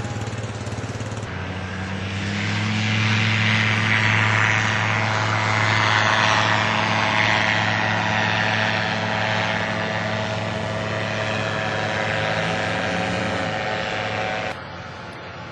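Propeller engine of an Aventura II amphibious light aircraft running steadily. It grows louder about two seconds in, then slowly eases off, and cuts off abruptly near the end.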